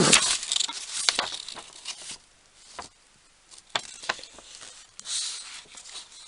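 Packaging being handled: rustling for about the first two seconds, then a few light clicks and a short rustle near the end.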